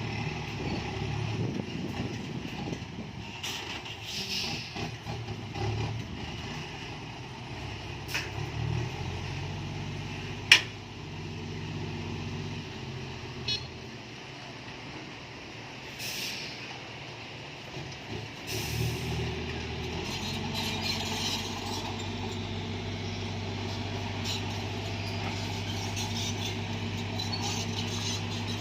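Isuzu FXZ 360 dump truck's diesel engine running through its loud exhaust. The engine note rises and falls, then settles into a steady run about two-thirds of the way in. A single sharp crack comes about ten seconds in, and there are two short hisses of air a little later.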